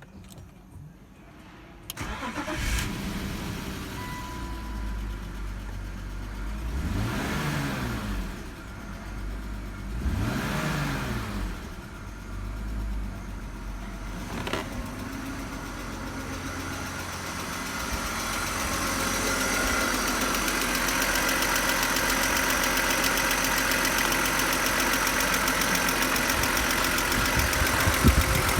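BMW M52TU B25 2.5-litre inline-six engine started about two seconds in, then blipped twice, its pitch rising and falling each time, and left idling steadily. There is a sharp click about halfway through, and the idle grows louder in the last third.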